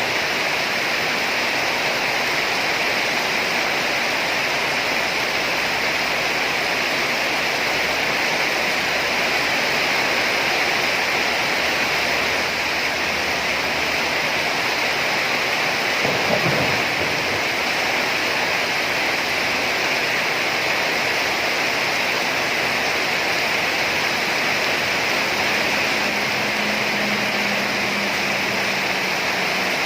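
Steady rain falling, an even hiss throughout. A short low thud comes about halfway through, and a faint low hum enters near the end.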